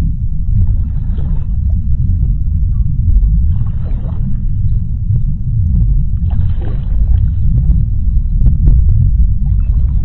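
Underwater ocean ambience: a deep, steady rumble, with short bursts of bubbling about every three seconds and a few faint clicks.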